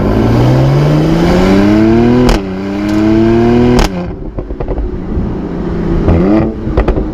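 Car engine accelerating hard, its pitch climbing through one gear, dropping at an upshift about two seconds in with a sharp crack, and climbing again until a second crack near four seconds, after which it runs quieter with a brief rev.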